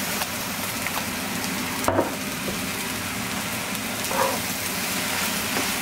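Fried rice sizzling steadily in a hot cast-iron skillet while a wooden spatula stirs it, with a short knock about two seconds in.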